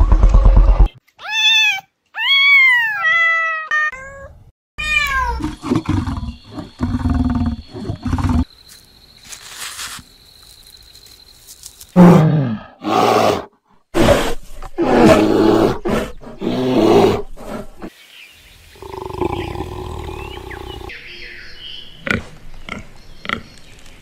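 A string of separate animal calls. First come several high, arching cries that rise and fall in pitch. Then a run of rough growls and roars, the loudest around the middle.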